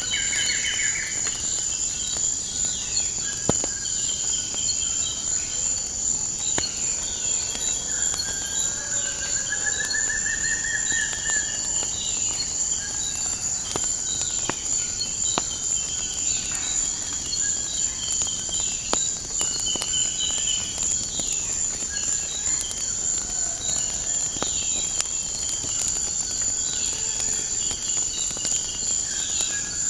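A steady high-pitched insect chorus, cricket-like, with birds chirping and trilling over it and occasional sharp pops from a crackling wood fire.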